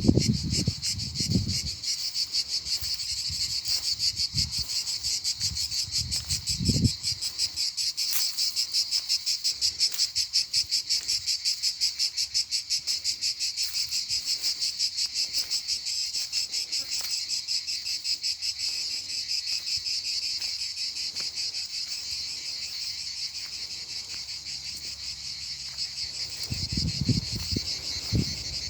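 Insects chorusing in a high, steady pulsing trill, about two pulses a second, with brief low rumbles near the start, about seven seconds in, and near the end.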